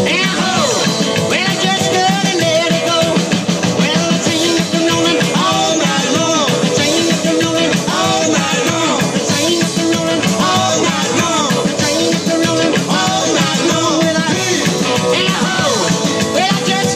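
Live rock and roll band playing, loud and continuous.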